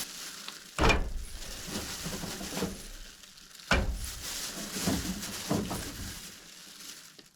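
Handling noise of food packages being picked up and set down: two sudden knocks or rustles, about a second in and again near the middle, each trailing off.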